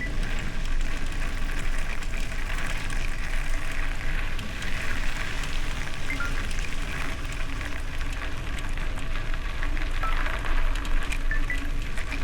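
Bicycle tyres rolling over gravel: a steady crackling patter of small stones with rushing noise, recorded from a camera on a moving bike. Short faint chirps come and go over the top.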